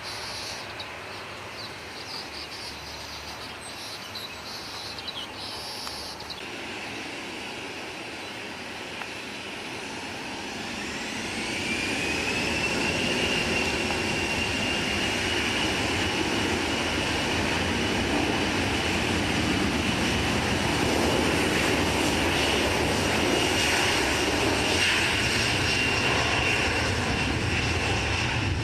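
Airliner engines spooling up: a whine rises for a few seconds, then holds steady while the engine noise grows louder and keeps running at high power. Birds chirp faintly before the engines build.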